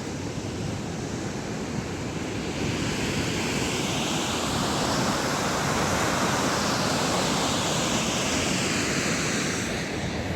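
Steady rush of a torrential mountain river and waterfall, growing somewhat louder in the middle and easing near the end.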